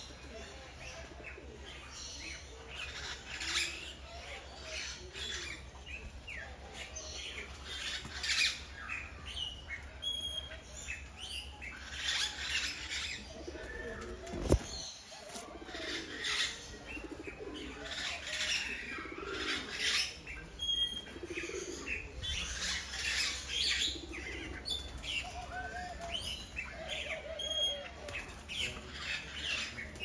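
Many birds chirping and calling in short, repeated notes, with one sharp click about halfway through.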